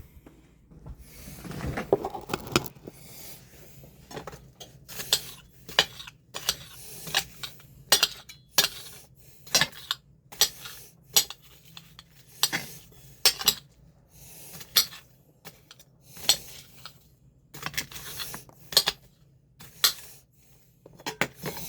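A metal utensil clinking against cookware again and again, sharp ringing clinks about every 0.7 seconds, while chopped onions and peppers are mixed in. A softer scraping about one to three seconds in.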